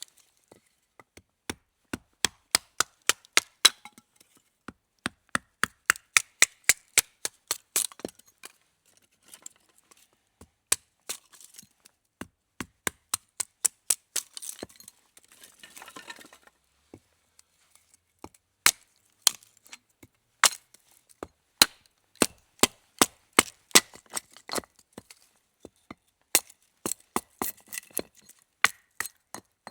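Knife chopping on a wooden cutting board in quick runs of about three to four strokes a second, with short pauses between runs and a brief scraping sound about halfway through.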